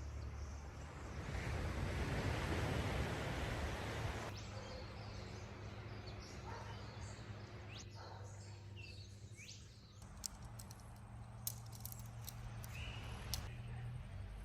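Quiet outdoor ambience: a soft, steady rushing noise for about four seconds, then birds chirping with a few sharp clicks.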